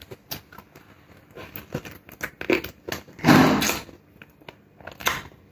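Close-up eating sounds of braised pork ribs eaten by hand: wet chewing and lip smacks as a run of small clicks, with a louder, longer mouth sound about three seconds in.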